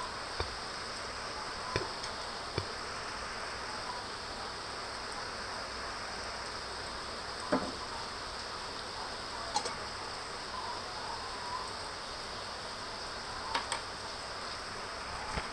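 Steady rain falling in a forest: an even hiss with a sharp drip or drop striking every few seconds, over a steady high insect drone.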